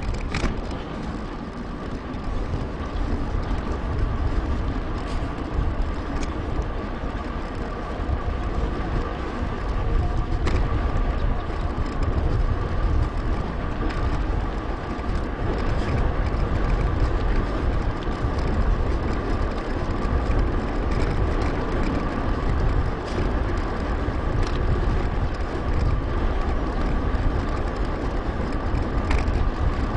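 Wind buffeting an action-camera microphone over the rolling rumble of a mountain bike's tyres on a paved path, with a thin steady whine and a few scattered clicks.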